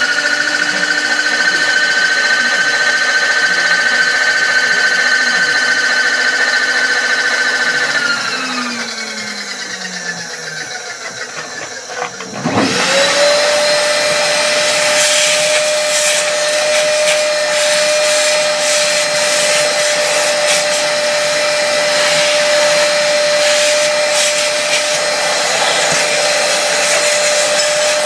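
Electric machine-tool motor running with a steady whine, then switched off and spinning down over a few seconds. About twelve seconds in, a machine motor starts up, quickly reaches a steady pitch and runs on with a rough, crackling hiss over the whine.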